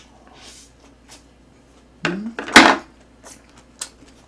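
A person chewing a big mouthful of a pork belly wrap, with a short hum about two seconds in and a loud, sharp noise just after it, the loudest sound; a few faint clicks follow.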